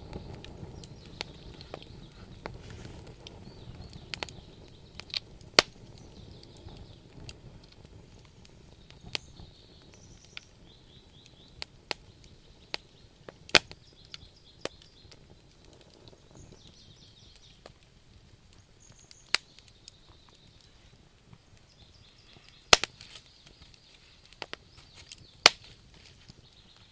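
Wood bonfire crackling: irregular sharp pops and clicks from the burning logs, with a few loud snaps, over a low rush of flame that dies down over the first few seconds.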